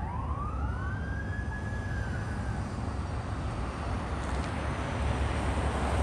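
Fire engine's siren rising in one wail sweep, levelling off and fading out after about two seconds, over a steady low rumble; the rumble and a broad rushing noise grow louder near the end.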